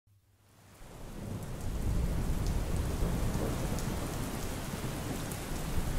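Steady rain with a low rumble beneath it, fading in from silence over the first two seconds, with scattered faint ticks of drops.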